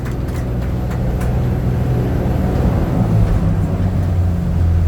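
Jet boat engine running under power, its steady hum growing slowly louder and dropping in pitch about three seconds in.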